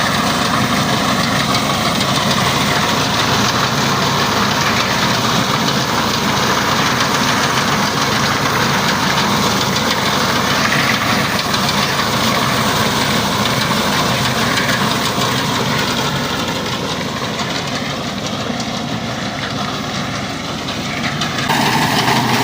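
Tractor engine running steadily under load, driving a wheat reaper, with dense mechanical clatter over the engine note. The sound changes abruptly near the end.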